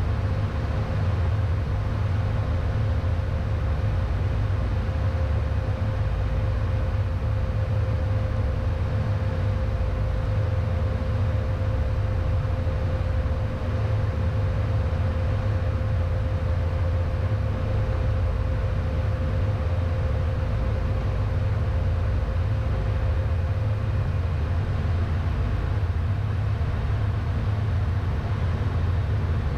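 Steady cockpit noise of a Beechcraft Premier I business jet on final approach: airflow and engine drone with a strong low rumble. A thin steady tone runs through it and fades out about two-thirds of the way through.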